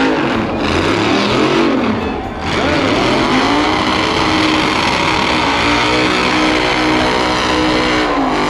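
Car engine revving hard at a burnout contest. The revs rise and fall in the first couple of seconds, then climb and hold high for several seconds before dropping near the end.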